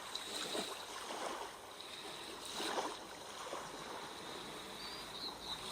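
Sea waves washing ashore as a soft background track, the surf noise swelling and receding in slow, gentle surges, with a faint steady high tone underneath.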